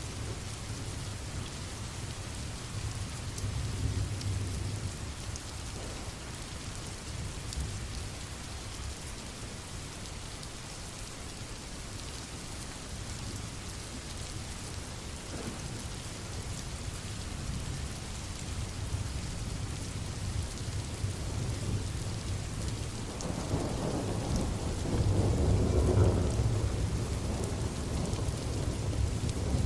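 Steady rain falling, with thunder rumbling low underneath. A louder roll of thunder builds about three-quarters of the way through and peaks shortly after.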